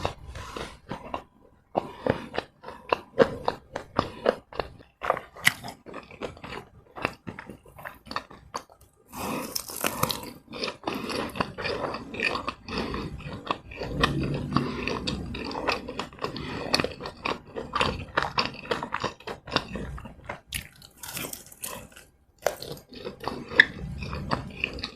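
Close-miked eating: biting and chewing fried Malaysian snacks, keropok lekor and masala vadai with sambal, as a quick irregular run of short crunches, with two louder crunching bursts, one about nine seconds in and one near twenty-one seconds.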